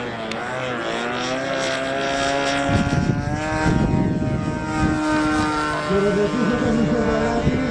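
Radio-controlled model aeroplane's propeller engine running in flight, its pitch steady and then slowly falling. Wind buffets the microphone from about three seconds in.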